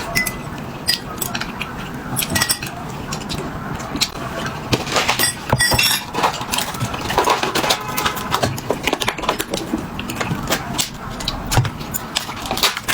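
Tableware clinking during a meal: many short, irregular clicks and clinks of utensils against dishes.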